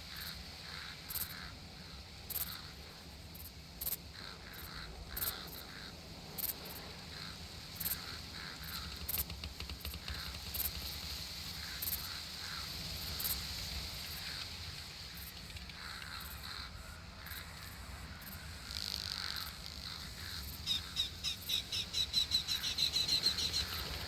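Summer outdoor ambience: a bird calling in short notes repeated about every second or so over a steady high insect drone. Near the end comes a rapid trill of quick pulses that grows louder.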